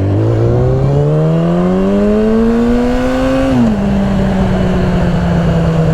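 Yamaha R6 sport bike's inline-four engine accelerating hard, loud, its pitch climbing steadily for about three and a half seconds. The pitch then drops at an upshift and holds, easing slightly lower.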